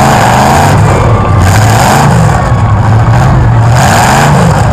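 Demolition derby car's V8 engine revving up and down repeatedly, loud and close over a steady noisy rumble.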